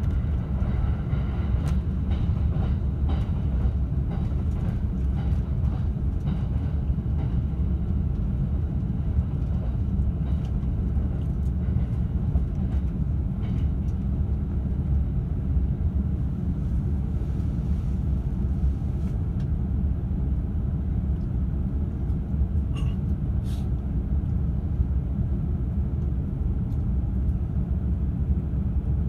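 Steady low rumble of an E531-series double-deck electric train running on the rails, heard inside its upper-deck Green car, with a few faint clicks.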